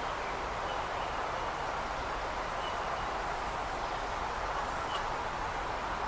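Steady outdoor background noise with a few faint, short bird chirps spread through it.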